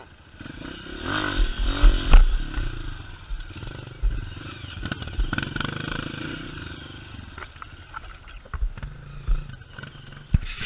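Vehicle engine revving hard, then running on more steadily, with clattering and scraping knocks from the vehicle working over rough ground.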